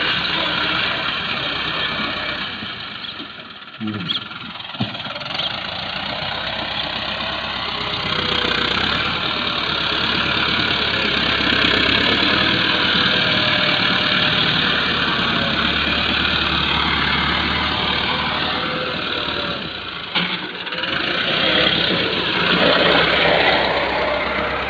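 Massey Ferguson tractor's diesel engine running while loading soil, with two short knocks about four seconds in.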